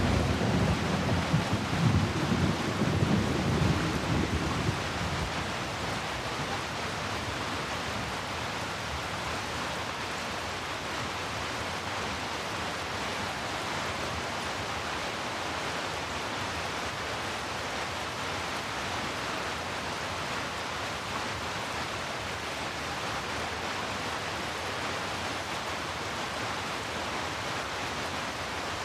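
Steady rain with a roll of thunder that rumbles loudly over the first few seconds and fades away by about five seconds in, leaving an even rain hiss.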